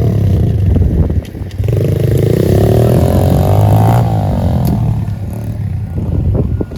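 Pit bike engine revving hard, dropping off briefly a little after a second in, then climbing in pitch for a couple of seconds before easing off.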